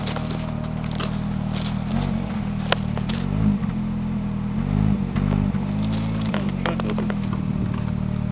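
Car engine idling steadily, revved up and let fall back twice, about two seconds in and again about five seconds in.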